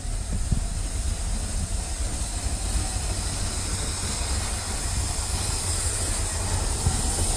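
Ford F350 dump truck's carbureted engine idling with a steady low rumble and a hiss that slowly grows louder, sounding like it's sucking a lot of air.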